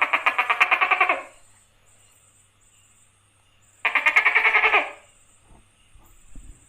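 Gecko calling: two bursts of rapid chattering pulses, the first about a second and a half long at the start, the second shorter about four seconds in.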